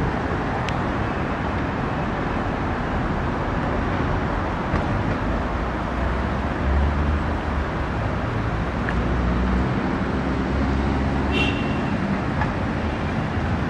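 Steady outdoor rumble of railway and road traffic, with a deeper low hum swelling for several seconds in the middle and a few short high chirps near the end.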